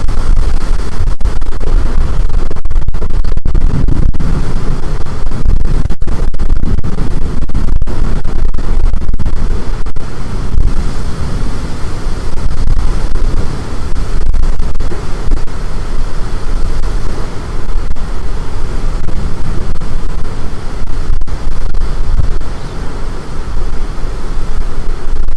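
Storm-force wind buffeting the microphone: a loud, continuous, rumbling rush with no letup.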